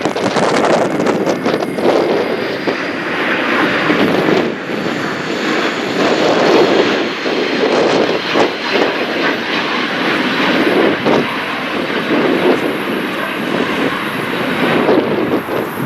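Cessna Citation business jet's turbofan engines running, a continuous jet noise with a faint high whine, buffeted by gusting wind on the microphone.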